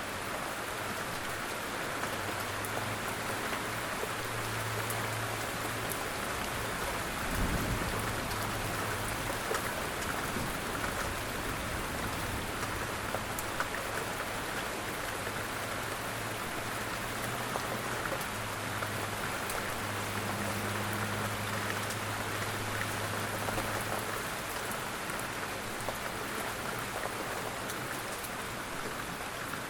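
Steady rain falling on a surface, with the fine patter of individual drops. A faint low hum comes and goes underneath, and there is one brief low thump about seven seconds in.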